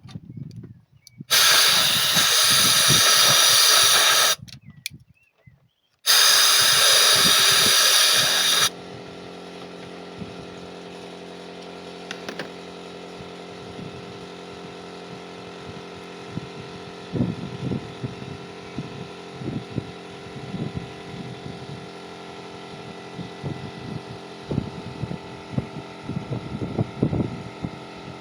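Two loud, steady hisses of about three seconds each, starting and stopping abruptly, followed by a quieter steady mechanical hum with scattered clicks and knocks.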